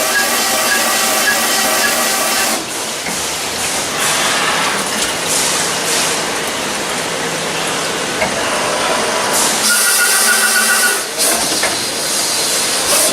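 Machine-shop equipment running: a steady mechanical whine of several tones over a hiss. It changes character about two and a half seconds in and again near ten seconds.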